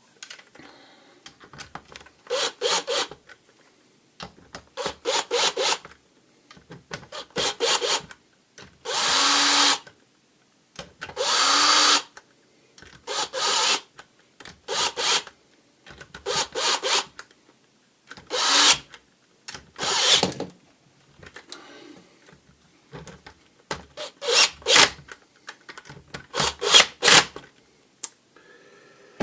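Cordless drill-driver driving screws in a string of about a dozen short bursts, each half a second to a second long, with the two longest near the middle.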